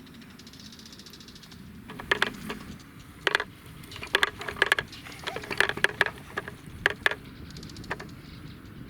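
Wooden push-along baby walker clacking and rattling as it is pushed, its moving chick figure making an irregular run of sharp clacks from about two seconds in, easing off near the end.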